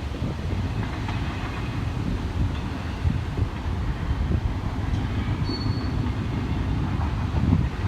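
CSX intermodal freight train rolling past: a steady low rumble of wheels and cars on the track, with a brief high-pitched squeal about five and a half seconds in.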